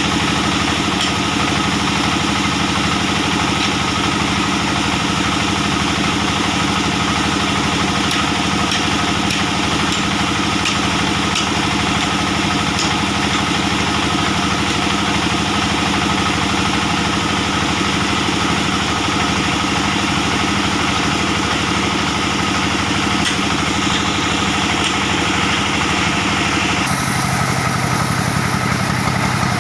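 Stationary diesel engine driving a band sawmill, running steadily under load while the blade cuts a large, dry acacia log. Near the end the sound changes abruptly to a different, lower tone.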